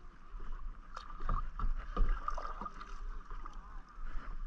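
Kayak paddling: the paddle dipping and splashing in the water, with a few sharper splashes or knocks between about one and two seconds in, over a steady low rumble of wind on the microphone.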